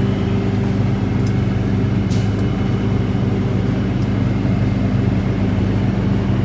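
Tow truck's engine idling steadily, with a few light clicks over it.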